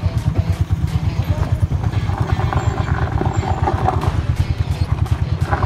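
Motorcycle engine running at low speed, heard from on the bike, with a steady, rapid beat of firing pulses.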